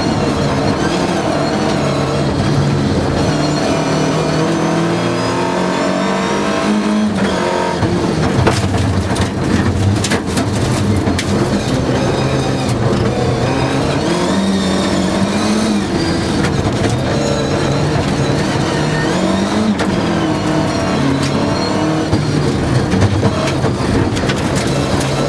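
Rally car engine at full load, heard from inside the cabin. The pitch climbs as it revs up through the gears and drops back at each shift or lift-off, several times over.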